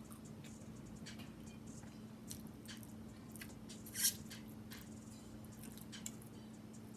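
Close-up mouth sounds of a person chewing a cheesesteak sandwich: wet, squishy chewing with scattered small clicks and one louder smack about four seconds in. A faint steady hum runs underneath.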